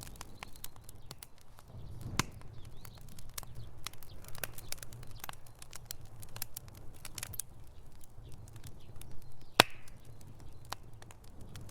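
Wood fire crackling in a fireplace: irregular pops and snaps over a steady low rumble of the flames, with one louder pop near the end.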